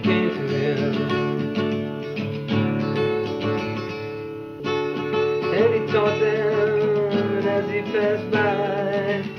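A song with a strummed acoustic guitar and a singing voice, easing off briefly about halfway through before picking up again.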